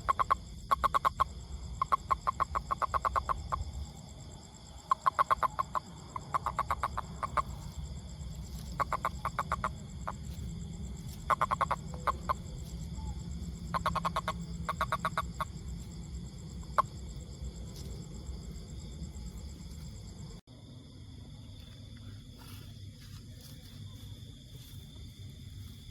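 A toad calling in short trills of rapid pulses, about a dozen bouts of under a second each, which die away about fifteen seconds in. Over a low steady rumble.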